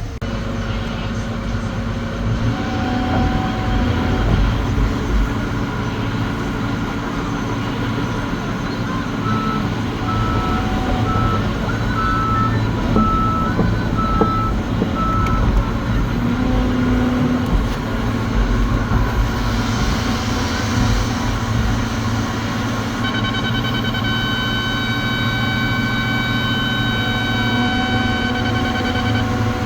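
Cat 725C articulated haul truck's diesel engine running steadily as the truck drives, heard from inside the cab. A row of short beeps sounds in the middle, and a steady high electronic tone comes in about three-quarters of the way through.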